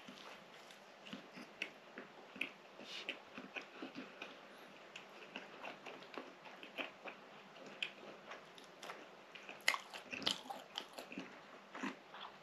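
Close-up mouth sounds of a person biting into and chewing a soft za'atar flatbread: quiet wet smacks and small crunchy clicks, a little louder about ten seconds in.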